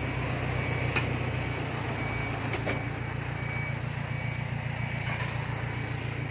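A vehicle engine running steadily, with a short high warning beep repeating a little under once a second, like a reversing or lifting alarm. Three sharp knocks of metal sound over it.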